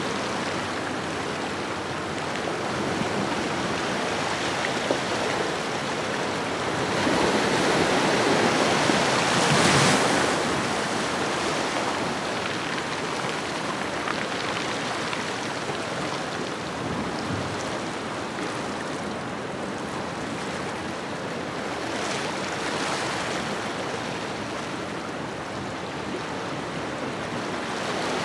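Ocean waves washing onto a shoreline in a continuous rush, one wave swelling louder about ten seconds in, then easing back to a steady wash with smaller swells.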